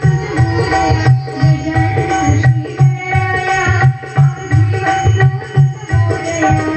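Live Indian orchestra music: an instrumental passage with a steady tabla-style hand-drum beat under a held note and a melody line.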